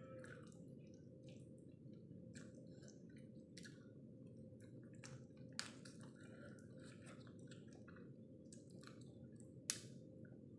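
Faint, wet chewing and sucking on cooked black-chicken feet, with scattered mouth clicks and smacks. Two sharper clicks stand out, one about halfway through and one near the end, over a steady low room hum.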